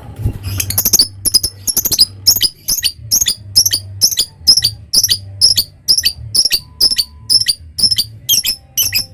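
Lovebird giving a long unbroken run of shrill, evenly spaced calls, a little over two a second, starting about half a second in. This is the long 'ngekek' chatter that breeders prize. A low hum runs underneath.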